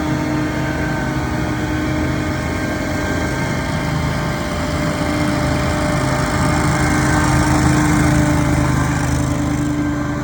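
Engine of a piece of lawn-care equipment running steadily at working speed. It grows somewhat louder and rougher in the second half, then eases slightly near the end.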